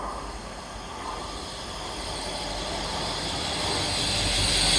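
Class 180 diesel multiple unit approaching the platform, its engine and rail noise growing steadily louder, with a high hiss building near the end.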